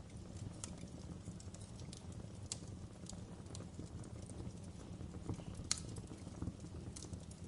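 Wood fire burning in a fireplace: irregular sharp crackles and pops over a low steady rumble of flames, with the loudest pop a little before six seconds in.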